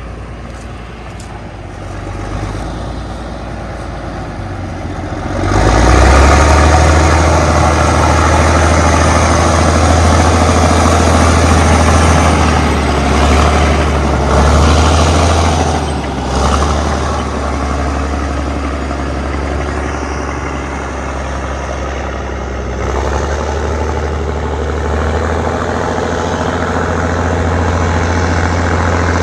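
Allis-Chalmers HD-21 crawler dozer's diesel engine running. It gets much louder about five seconds in and eases off somewhat later on.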